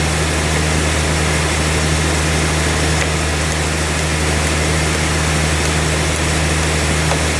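Sawmill machinery running steadily: a constant low hum over an even hiss of noise.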